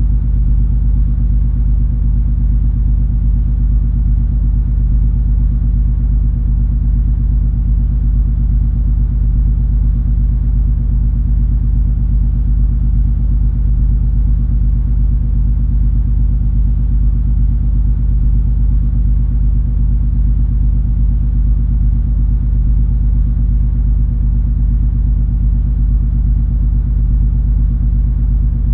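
Steady low rumble of the cruise ferry MS Color Magic under way: a constant engine drone with a hum of several steady low tones, unchanging throughout.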